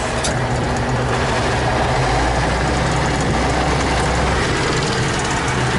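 T-150K tractor's diesel engine running steadily, with a deeper low drone coming in about two seconds in.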